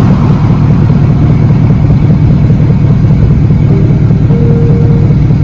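Engine of a farm vehicle running steadily at close range: a loud, even low drone with no change in speed.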